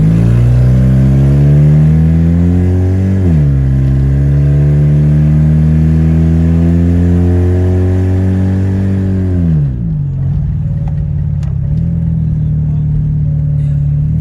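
Mazda RX-8's 13B rotary engine pulling under acceleration: the revs climb, drop sharply about three seconds in at a gear change, climb again through a long pull, then fall off about ten seconds in and settle to a steady lower hum.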